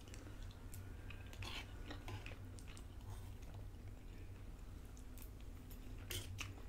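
A person chewing a mouthful of scrambled eggs close to the microphone, with scattered soft wet clicks and crackles.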